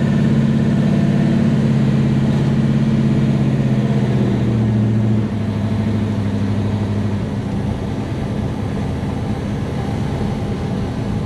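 Big-block V8 exhaust of a 1967 Chevelle drag car, heard from inside the car while driving: a steady, deep note that drops in pitch and level about five seconds in, then runs on lower.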